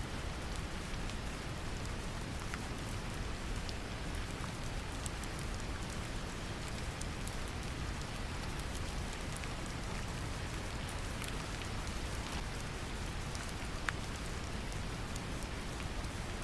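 Brown noise mixed with steady rain: an even low rumbling hiss with scattered raindrop ticks on top, one sharper drop about 14 seconds in.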